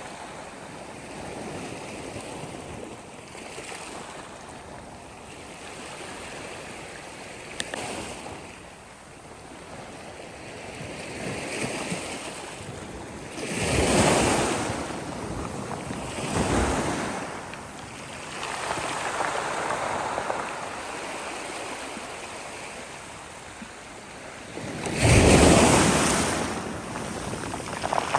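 Sea waves breaking and washing in: a continuous rush with louder surges about halfway through and again shortly after, and the loudest one near the end.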